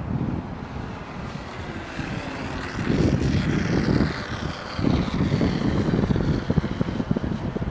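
Electric RC Freewing P-51D Mustang's motor and propeller whining as the model flies past, the pitch shifting as it passes. Gusts of wind buffet the microphone with low rumbles midway and near the end.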